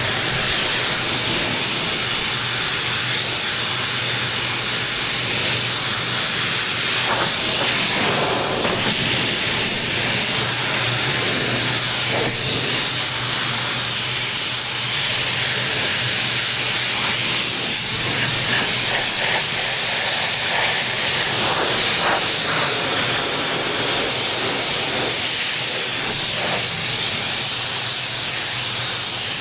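Pressure washer spraying: a steady hiss from the high-pressure water jet, with a low hum underneath.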